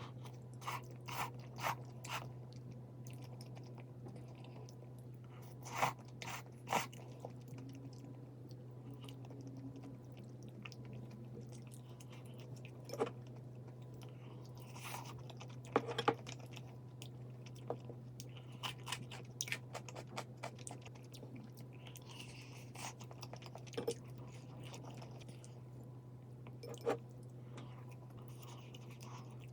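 A person eating close to the microphone: bites and crunchy chewing that come in scattered bursts, over a steady low hum.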